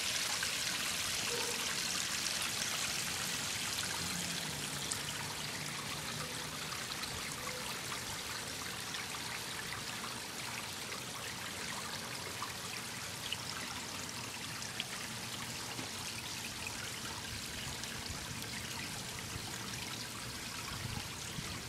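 Water from a pondless backyard waterfall running over rocks: a steady trickling and splashing flow.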